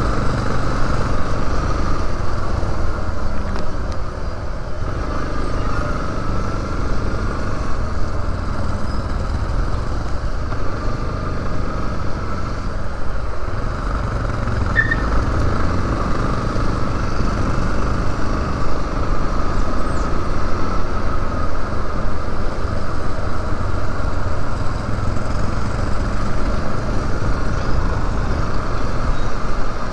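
Yamaha Lander 250 single-cylinder four-stroke engine running steadily while riding in city traffic, its pitch drifting gently up and down with the throttle, under a heavy rumble of wind on the helmet-mounted camera.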